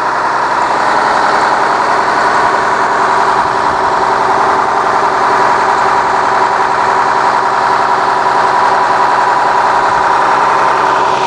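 Cummins ISC 8.3-litre inline-six turbo-diesel in the rear of a school-type bus, running steadily at idle, with a steady high whine over the engine note.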